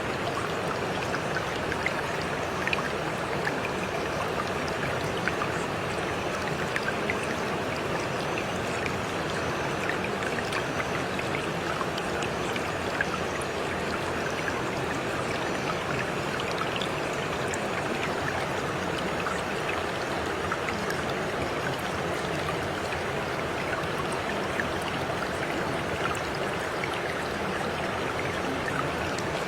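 Steady rain: an even hiss of falling water with scattered small drop ticks.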